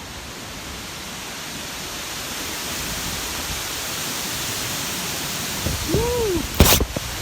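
Gale-force hurricane wind rushing through the trees, a steady rushing that slowly swells. Near the end come a brief rising-and-falling tone and then a sharp knock.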